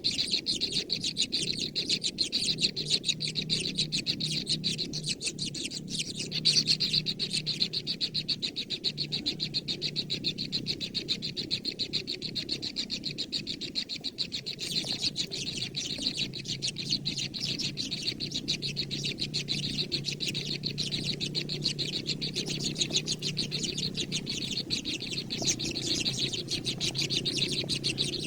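Baby birds chirping rapidly and without pause, with a steady low sound underneath.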